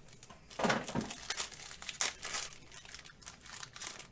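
Plastic and foil wrapper of a trading card pack crinkling and tearing as it is opened by hand: a run of irregular rustles, loudest a little under a second in.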